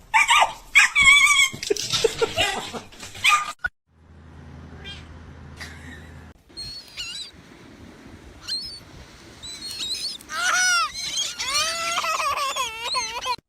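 Short animal calls that rise and fall in pitch, crowding together in the last three seconds, with higher chirps earlier on. A low steady hum sounds for a couple of seconds near the middle.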